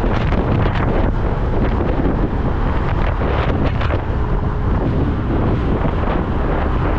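Steady wind rushing over the microphone of a riding motorcycle, with the bike's running and road noise beneath it; the wind is gustier in the first few seconds.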